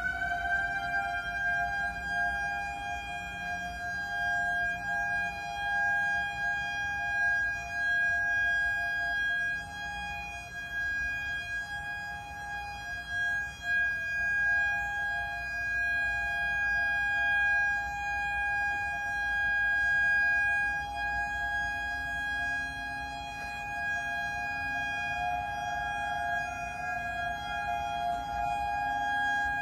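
Outdoor civil defense warning siren sounding a steady tone just after winding up to pitch: two close pitches heard together, loudness swelling and fading every few seconds.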